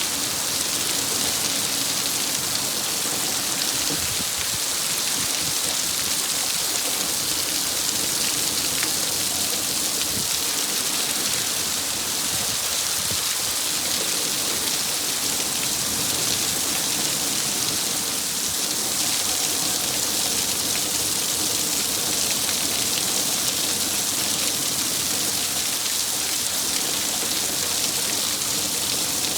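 Heavy rain from a severe thunderstorm falling in a steady downpour, an even hiss with no let-up.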